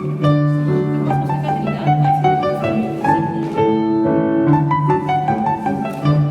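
Classical-style piano music, with long held low notes under a moving melody of shorter notes.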